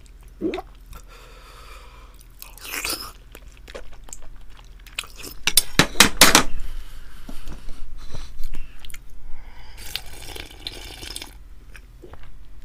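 Close-miked chewing and biting of spicy grilled chicken wings, with crunching bursts, the loudest about halfway through.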